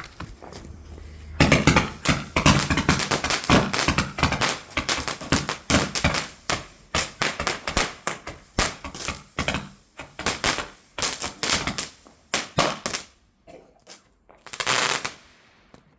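A firework going off in a rapid run of sharp bangs and crackles, several a second, for about eleven seconds, with one more short burst near the end.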